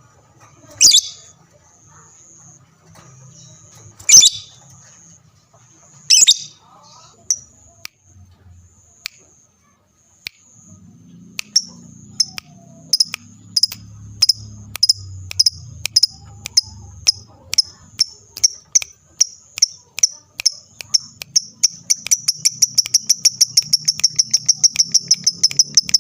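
Lovebird singing: a few loud, sharp, high chirps, then a run of quick repeated chirps that speeds up into a fast continuous high trill (the 'ngekek' trill) in the last few seconds.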